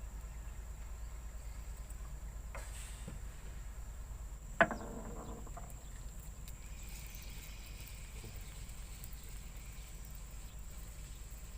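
Steady high insect drone over a low outdoor rumble, broken once, about halfway through, by a single sharp knock with a short ringing tail, plus a few faint clicks.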